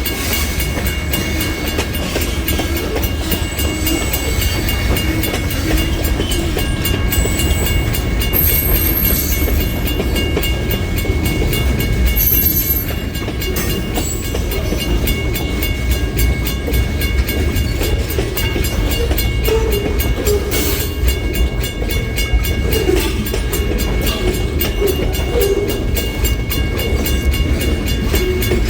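Freight train rolling past at close range: a steady low rumble with wheels clacking on the rails, and brief high squeals about a third and halfway through.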